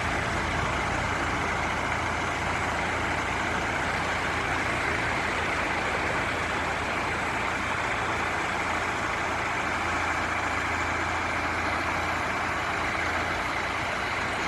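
Vactron vacuum excavation truck running steadily: a low engine hum under an even rushing noise that does not change.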